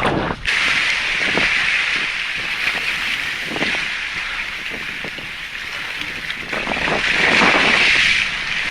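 Steady rushing hiss of wind and sea aboard a boat, with a few light knocks, growing louder near the end.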